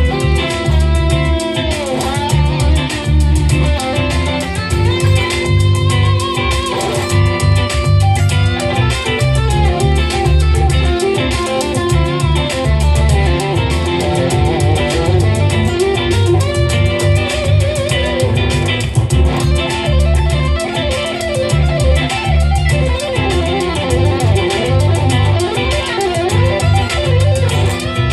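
Gibson Les Paul Studio Shred electric guitar playing a lead line with string bends and vibrato over a backing track of drums and bass.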